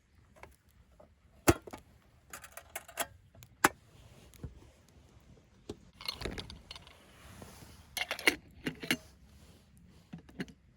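Small metal items being handled, clinking and clattering, with a few sharp knocks and a scraping rustle about six seconds in.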